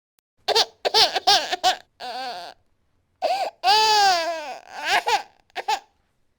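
Baby crying: a run of short sobbing cries, a pause, then a longer wail that falls in pitch about halfway through, ending in two brief sobs.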